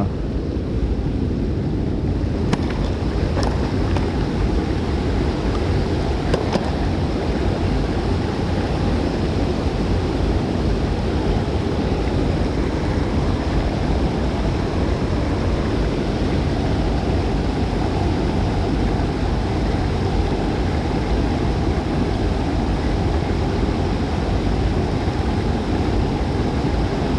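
Steady rush of water mixed with wind buffeting the microphone, with a few faint clicks in the first several seconds.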